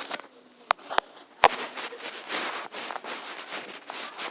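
A few sharp clicks, then about two and a half seconds of rustling noise.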